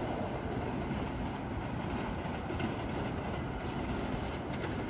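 BART Fleet of the Future train running on the rails with a steady wheel-and-track noise, a few light clicks near the end.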